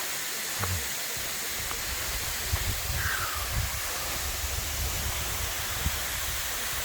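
Tagbo Falls waterfall rushing with a steady, even hiss. A few low bumps and a short falling whistle-like note about three seconds in sit on top of it.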